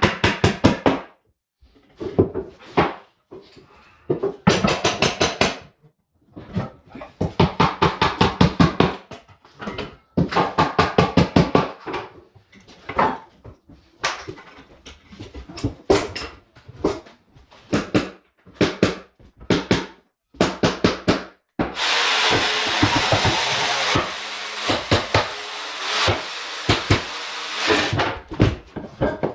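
Tool work on a hardwood floor: repeated bursts of rapid tapping, about ten strikes a second, then several seconds of steady rushing noise near the end.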